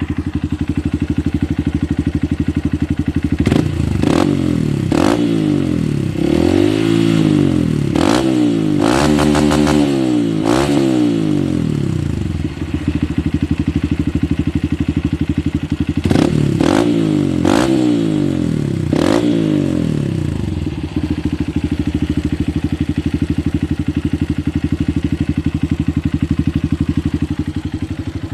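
Honda CRF150 single-cylinder four-stroke engine through a Triton aftermarket exhaust, idling and then blipped through a run of quick throttle revs, one held a moment longer, then a second run of revs, each falling back to a steady idle. The exhaust note is deep and bassy.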